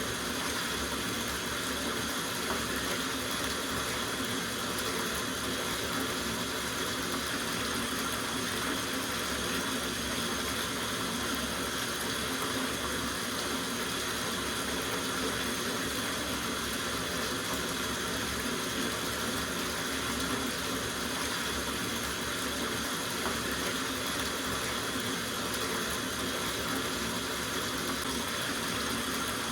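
Water running from a tap into a soaking bathtub, a steady even splashing rush.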